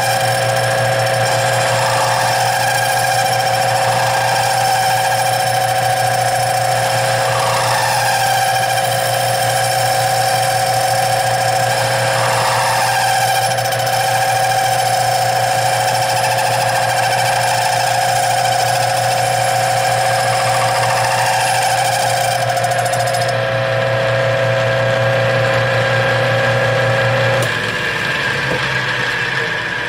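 Metal lathe running while turning aluminum bar stock round, a steady machine whine that swells slightly every few seconds. The lathe shuts off near the end.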